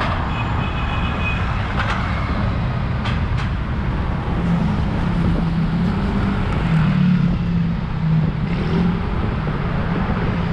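Busy road traffic with a vehicle engine running close by, heard over a continuous rumble of road and wind noise, with a brief high beep about half a second in.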